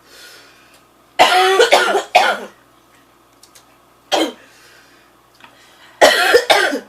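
A woman coughing hard in three bouts, two or three coughs about a second in, one short cough around four seconds in and another fit near the end, her throat burning from very hot chicken wing sauce.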